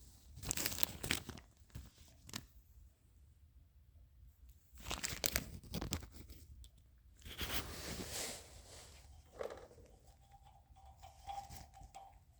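Packaging crinkling and tearing in three short bursts, with a few small handling clicks; a faint steady tone comes in near the end.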